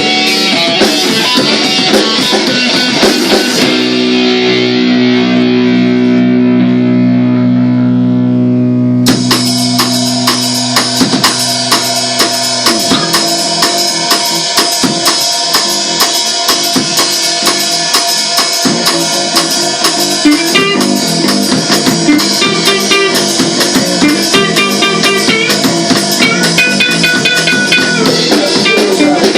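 Rock band playing guitar and drum kit: a song finishes on a held chord left ringing from about four seconds in, then a new song starts abruptly with guitar and drums about nine seconds in.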